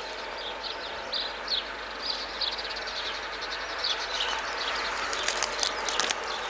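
Small birds chirping in short repeated calls over a steady outdoor hiss, with a few sharp ticks near the end.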